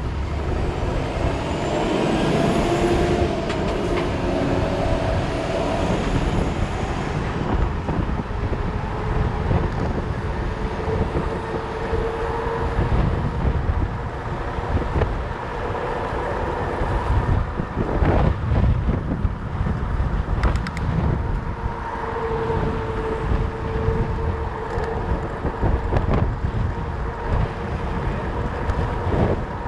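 Wind rushing over the microphone and the rumble of a fat bike rolling on 4.4-inch Schwalbe Jumbo Jim tyres, with a faint steady hum. A few knocks come about two-thirds of the way through.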